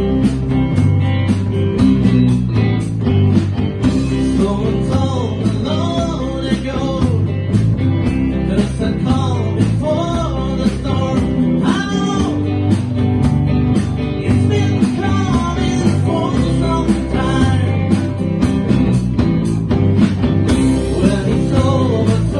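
Live rock band playing a country-rock song: guitars, bass and drums over a steady beat.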